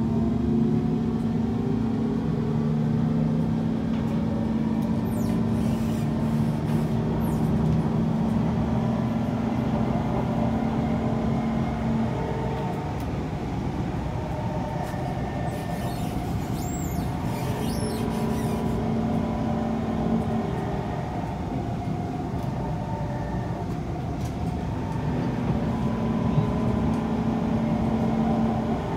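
Kawasaki C151 electric train running on the line, heard from on board: steady running noise of wheels and car body with a steady motor hum, which drops out for several seconds around the middle and comes back twice.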